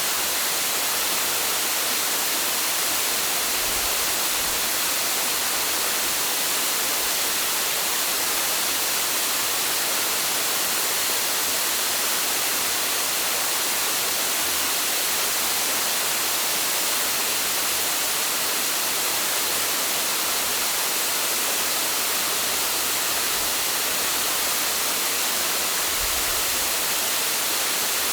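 Waterfall's water crashing down in a steady, unbroken hiss-like rush, strongest in the high frequencies.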